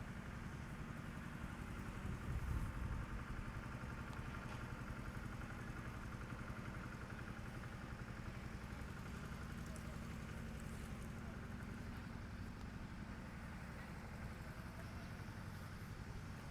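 An engine running steadily, with a brief swell in loudness about two and a half seconds in.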